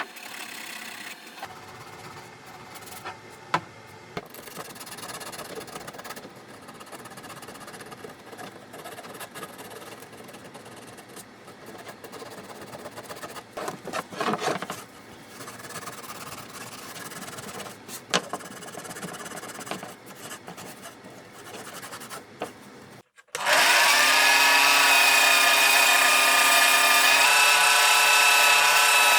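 Hand work on wood: steady rubbing and scraping with a few sharp clicks and knocks. After a brief cut near the end, a power tool motor starts and runs steadily, much louder, with a high whine.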